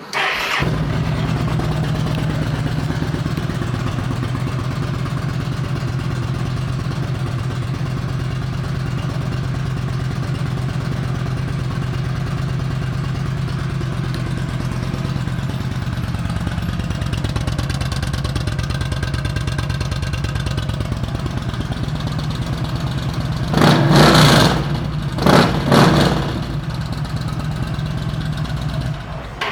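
Yamaha V Star 1300 V-twin with an aftermarket Cobra exhaust starting right away and idling steadily. About 24 seconds in it is blipped twice in quick succession, settles back to idle, then is shut off near the end.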